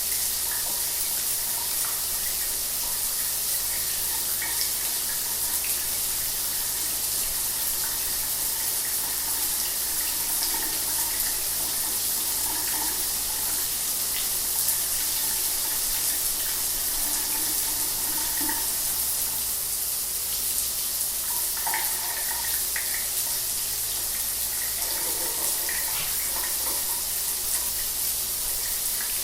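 Shower water running steadily: an even hiss of spraying water with small splashes here and there.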